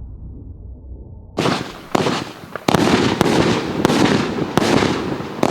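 A 50-shot consumer fireworks cake with 30 mm tubes firing: after about a second and a half of low, fading rumble, a run of sharp shots follows, roughly one to two a second.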